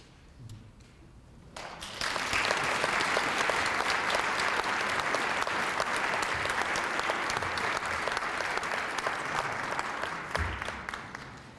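Audience applauding: the clapping starts about two seconds in after a short quiet, holds steady, and dies away near the end.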